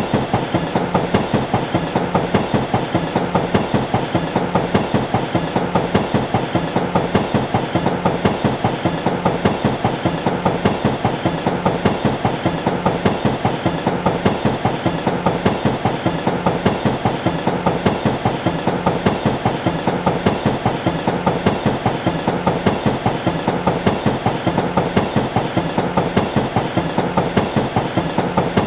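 A train running steadily, its wheels clicking over the rail joints in an even, regular rhythm of several beats a second that does not change.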